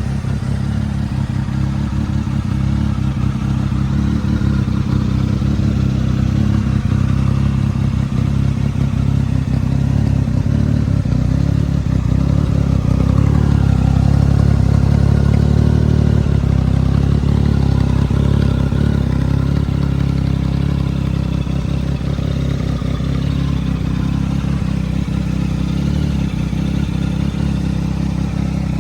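Triumph Speed Triple R 1050's three-cylinder engine idling steadily, the revs swelling briefly about halfway through.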